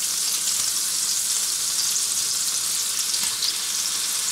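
Slices of boiled beef udder frying in melted butter in a cast-iron pan over a moderate gas flame: a steady crackling sizzle that gets louder at the start as the slices are laid in.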